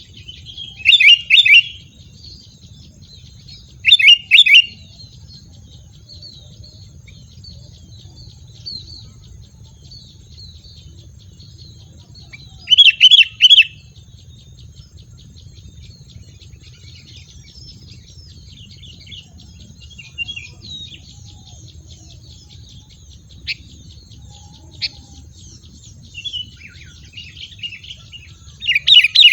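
A bird calling in short, loud bursts of rapid repeated notes, four bursts in all, the last running on past the end, over a faint continuous chatter of other small birds and a steady high-pitched whine.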